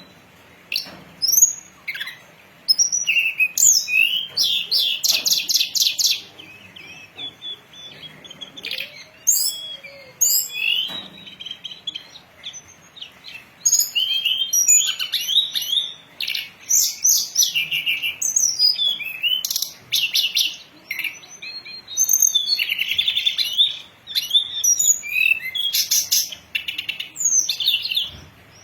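Tledekan gunung songbird singing: phrases of quick, high chirps, sweeping notes and fast rattling trills, sparser for a few seconds midway and then nearly continuous.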